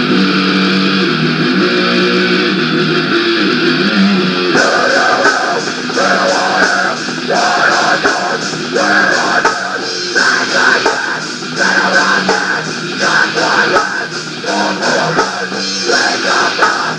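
Rock band demo recording: electric guitar chords ring out, and about four and a half seconds in the drums and full band come in with a driving beat.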